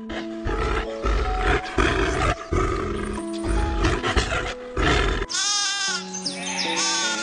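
A big cat, lion-like, roars in a run of rough, deep bursts over steady backing music. About five seconds in the roar stops and two bleats follow.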